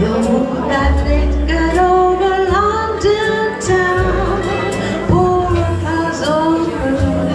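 Live music of a slow ballad: a melody line that glides between held notes over a steady bass, with light, regular percussion ticks.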